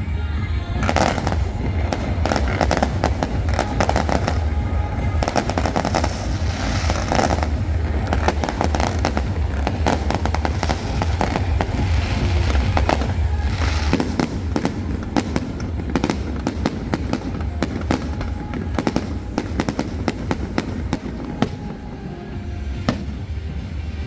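Fireworks bursting and crackling in rapid, overlapping volleys for the whole stretch, over music with a heavy bass.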